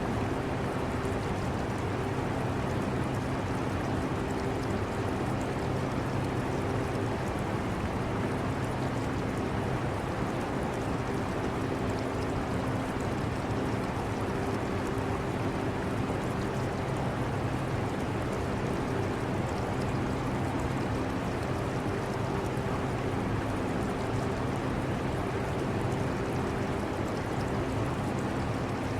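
Air conditioner running with a steady rushing airflow and a low steady hum, mixed with the continuous trickle and bubbling of an aquarium's water.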